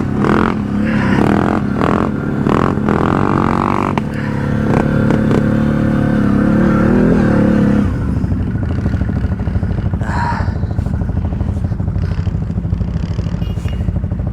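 ATV engine running on a rough trail, its pitch rising and falling with the throttle, with clatter from the machine. About eight seconds in, the revs drop and it settles to a lower, fast-pulsing run.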